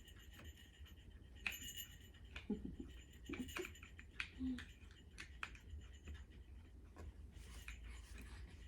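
Scattered light clicks, taps and scraping of wooden play gym legs and connectors being handled and pushed together, the sharpest knocks a second and a half to two and a half seconds in.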